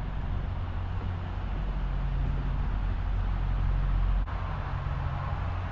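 Steady low rumble of road and engine noise inside a car cabin while driving on the highway.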